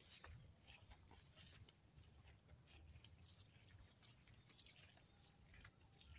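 Near silence: a faint low rumble with a few scattered faint clicks.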